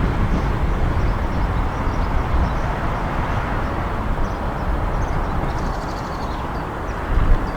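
Diesel train running at the station, a steady low rumble.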